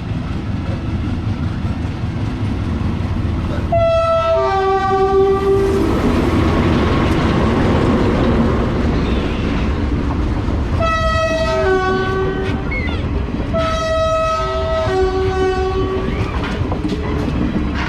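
Train running with a steady low rumble, louder and rushing for a few seconds in the middle. A tonal signal of several stepped notes sounds over it about four times.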